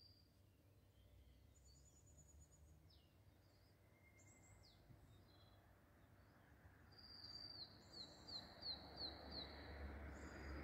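Faint calls of small forest birds: scattered high chirps and slurred whistles, then about seven seconds in one bird sings a quick run of about six short falling notes. A low rumbling noise grows over the last few seconds.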